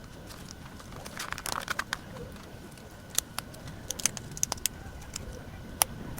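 Paper and sticker sheets being handled: a crinkling rustle about a second in, then a string of sharp, separate clicks and taps.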